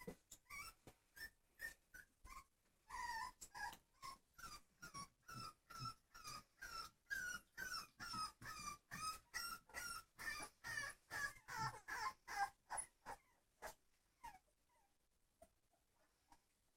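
Puppy whimpering in a rapid run of short, high, pitch-bending cries, about two to three a second. The cries thin out and fade near the end.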